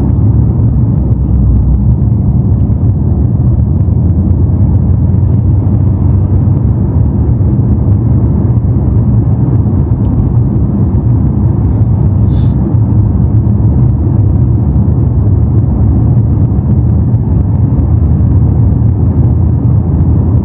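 Steady low rumble of engine and road noise inside a BMW M5's cabin while it drives slowly, with one brief click about twelve seconds in.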